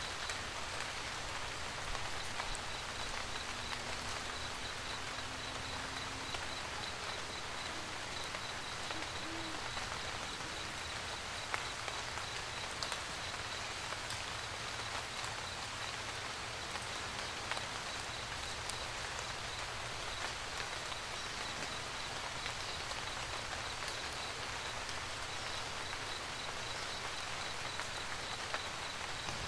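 Steady rain pattering on a camper van roof, with scattered louder individual drops.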